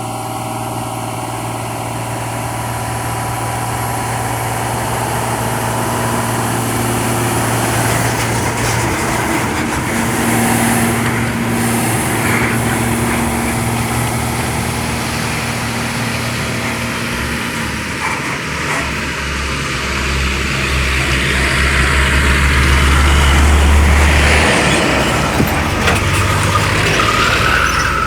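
Heavy diesel truck engine labouring as the truck crawls up a steep climb, a low steady drone that grows louder and is loudest about 23 seconds in as it passes close.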